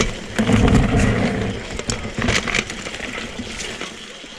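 Mountain bike rolling over a rocky trail: tyres crunching over stones and gravel with a run of clicks and knocks from the bike, with a heavy low rumble about half a second in that fades after a second or so.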